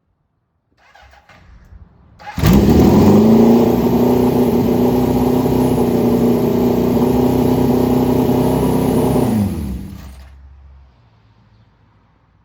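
A motor starts abruptly, runs at a steady, even pitch for about seven seconds, then winds down and fades out.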